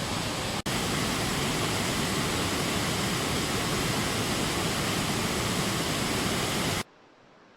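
Flash-flood water rushing down a stream channel: a loud, steady rush of water. It drops out for an instant about half a second in and cuts off abruptly near the end, leaving a much quieter hiss.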